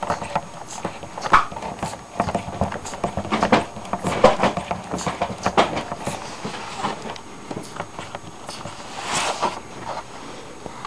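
Lego twin-cylinder pneumatic engine running: its plastic cylinders and valve clatter in an uneven run of sharp clicks, a few a second, with a short hiss of air about nine seconds in.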